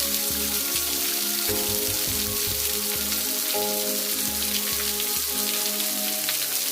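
Steady rush of falling water from a waterfall, with background music of held chords and a pulsing bass playing over it.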